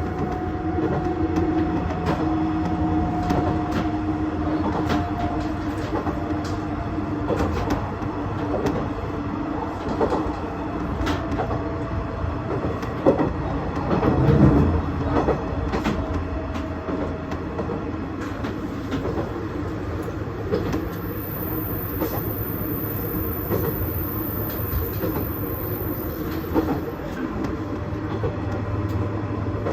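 KiHa 110 series diesel railcar running along the line, its engine and running gear making a steady rumble with a slowly falling whine, and scattered clicks from the wheels over rail joints. About halfway through, the rumble briefly swells louder.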